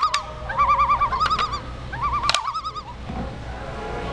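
A bird singing short warbling, whistled phrases, repeated about once a second, with three sharp clicks among them; the song stops about two and a half seconds in.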